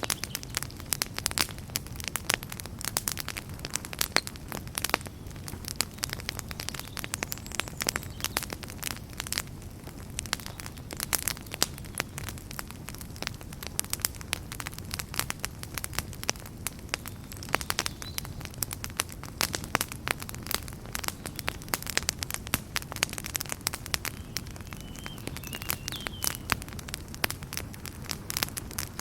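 Wood fire burning in a fireplace, crackling and popping irregularly over a steady low rumble of the flames. A faint, brief whistle is heard about 25 seconds in.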